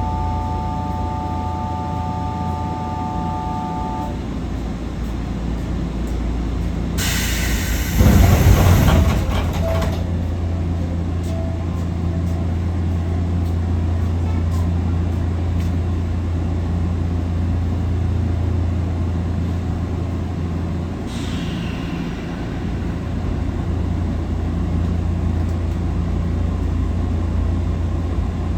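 Nankai 6200 series resistance-control electric train with a steady low hum throughout. A chord of steady tones sounds for the first four seconds. A loud hiss of released air comes about eight seconds in, and a second, shorter hiss comes about 21 seconds in.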